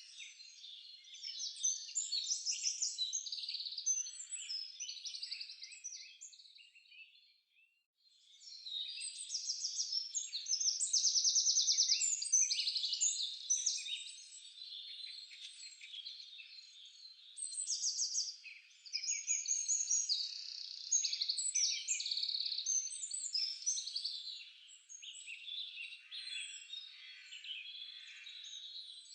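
Several songbirds singing at once, a dense overlapping chorus of high chirps and rapid repeated notes. It fades almost to nothing about seven seconds in, then picks up again more strongly.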